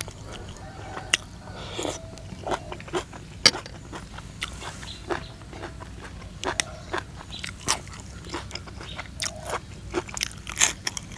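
Close-up chewing of crunchy food, with irregular crisp crunches and small clicks throughout.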